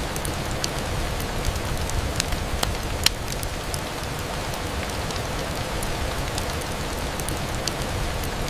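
Steady rain on a window: an even hiss with a low rumble beneath, and scattered sharp ticks throughout, the loudest about three seconds in.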